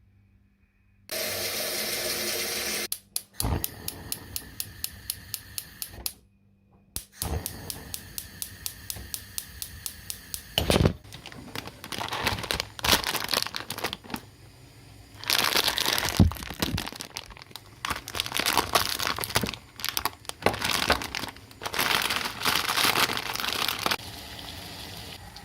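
Plastic food packaging crinkling and tearing in irregular bursts, after several seconds of quick, evenly spaced clicks.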